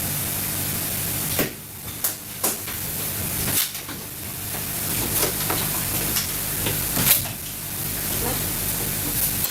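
Food sizzling in a pan: a steady hiss that drops off after about a second and a half, then a softer sizzle with scattered clicks and knocks of utensils on cookware.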